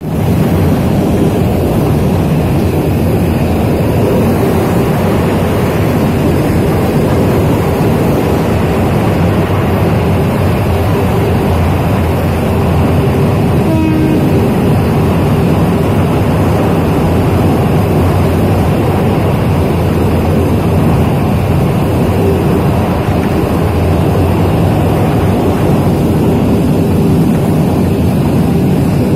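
Passenger train running along the track, a steady loud rumble.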